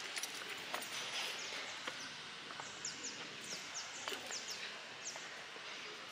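Small birds chirping: a run of short, high, falling chirps, about three a second, over a steady outdoor hiss.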